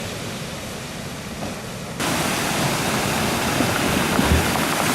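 Steady rushing noise of sea surf, with wind on the microphone, that jumps louder about two seconds in.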